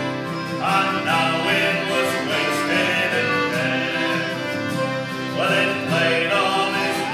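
Folk band playing a sea shanty on fiddle and guitar.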